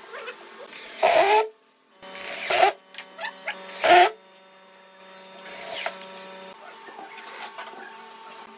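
A power tool run in four short bursts of about half a second each, over a steady faint hum.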